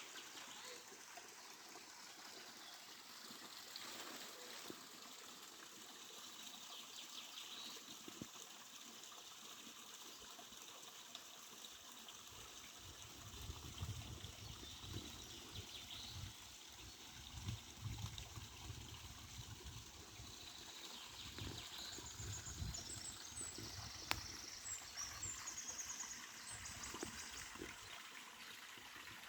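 Faint stream water trickling steadily, with small birds chirping now and then, the chirps busier and higher in the second half. Low rumbling joins from about halfway through.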